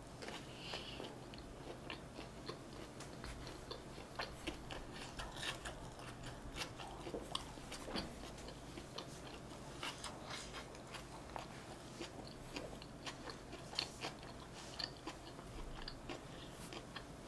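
Quiet, close-miked chewing of a mouthful of North Korean tofu rice (a fried tofu pocket stuffed with rice) with a chunky spicy sauce: many small, scattered mouth clicks and smacks.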